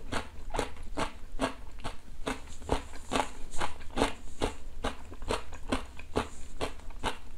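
Close-miked chewing of crunchy food with the mouth closed: a steady run of crunches, about three a second.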